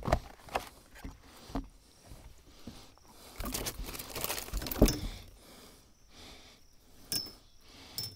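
Scattered knocks, clicks and rattles of handling in a small fishing boat, with a rustling stretch in the middle that ends in a loud thump.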